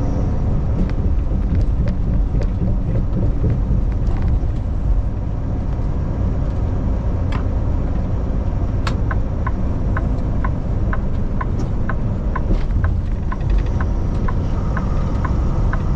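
Semi-truck cab interior on the move: steady low engine and road noise. From about halfway through, a turn signal ticks about twice a second.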